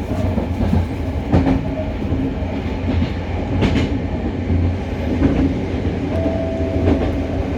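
Hokuriku Railway 03 series electric train running, heard from inside a trailer car: a steady wheel-on-rail rumble with a few sharp rail-joint clacks. No motor whine, because the car is unpowered. A brief steady whine sounds about six seconds in.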